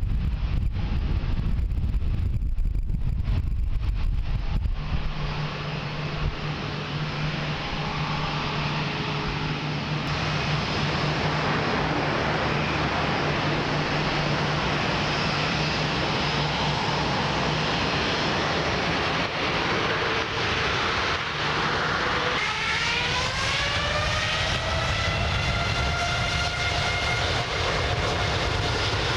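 Boeing 787-9 jet engines at takeoff thrust, a loud steady roar, with wind buffeting the microphone for the first few seconds. Near the end a whine rises in pitch and then holds steady over the roar.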